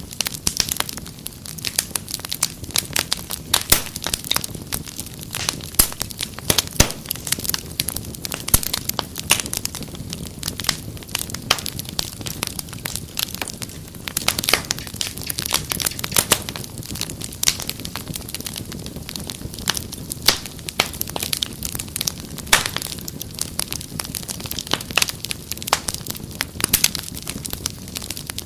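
Fire crackling in a fireplace: a dense, irregular stream of sharp snaps and pops over a low steady rush.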